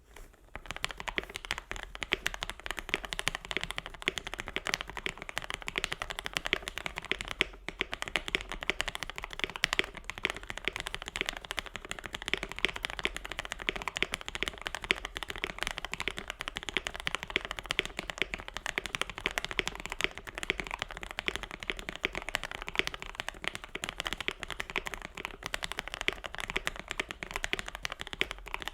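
Fast continuous typing on a KBD67 Lite R2 mechanical keyboard with lubed and filmed Gateron Black Ink v2 linear switches, foam-, tape- and Tempest-modded for a deeper keystroke sound, with a brief pause just before 8 seconds in.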